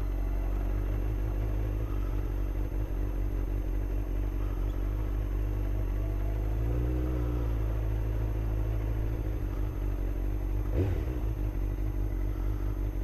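Motorcycle engine running steadily at low revs while rolling slowly, with a brief rise and fall in revs about seven seconds in. A single short sharp knock comes near eleven seconds.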